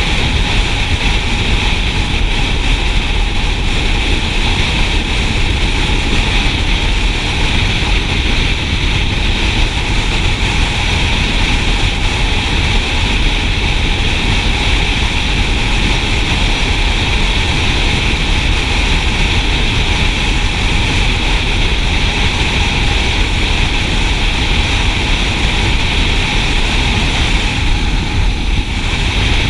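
Motorcycle running at a steady cruising speed on the road, with wind rushing over the microphone in a loud, unbroken roar.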